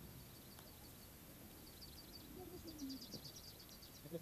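Faint birdsong: a small bird repeating short high chirps, breaking into a quick run of notes about two and a half seconds in.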